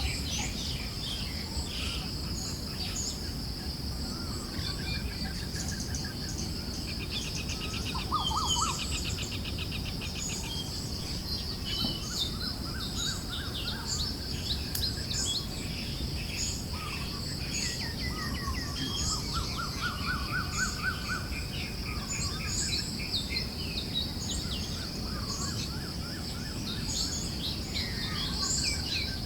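Forest birds chirping, with many short calls and rapid trills overlapping throughout, over a steady high insect drone and a soft low wind-like rush.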